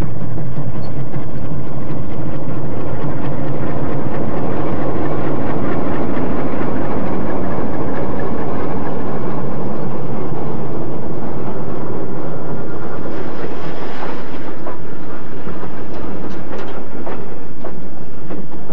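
Diesel locomotive passing close by, its low engine hum fading within the first few seconds, followed by a long string of passenger coaches rolling past with a steady wheel rumble. There are a few sharp clicks from the wheels in the last third.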